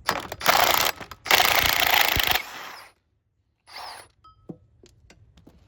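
Cordless impact wrench run in two loud bursts, a short one and then a longer one, taking a bolt off the engine. Afterwards come a few light metallic clicks and knocks.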